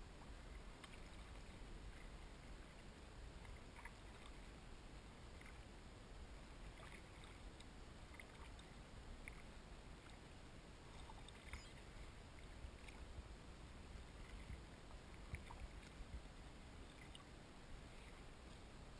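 Faint kayak paddling on calm water, with small irregular drips and splashes from the paddle.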